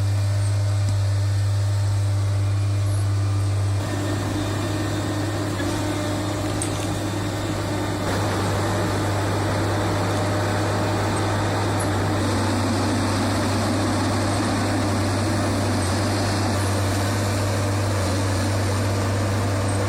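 Heavy machine's diesel engine running steadily with a constant low hum, with abrupt small shifts in tone about 4 and 8 seconds in.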